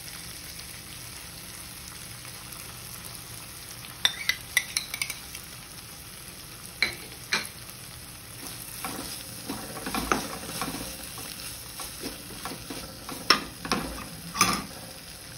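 Fried spice paste sizzling steadily in oil in a kadai as curd is stirred in, with a spatula clicking and scraping against the pan several times from about four seconds in, the last strikes the loudest.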